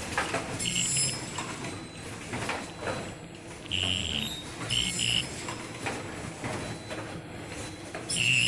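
Automated KF94 mask production machine running: continuous rhythmic mechanical clatter, with four short high-pitched tones over it.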